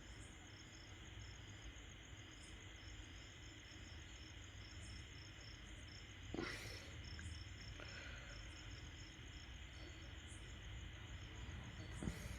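Faint, steady cricket chirping, a continuous high pulsing trill, with a couple of soft clicks about six seconds in and near the end.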